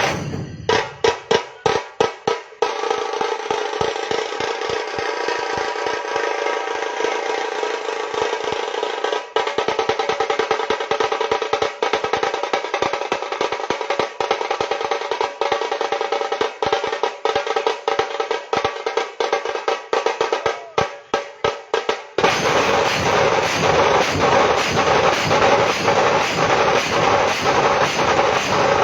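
Drumming with rapid strikes and rolls over a steady sustained tone; about two-thirds of the way through it turns denser and fuller.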